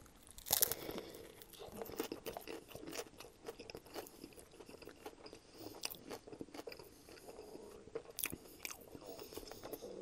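A bite into a toasted herb-and-cheese Subway sub with potato chips layered inside: a crunch about half a second in, then steady close-up chewing full of small crunches and clicks.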